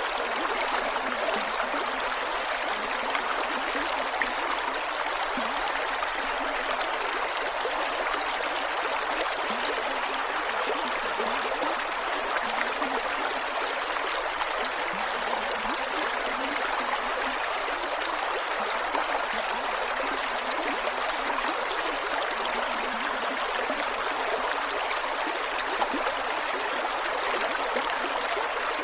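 Shallow creek water flowing over rocks: a steady, continuous rush with small gurgles and trickles flickering through it.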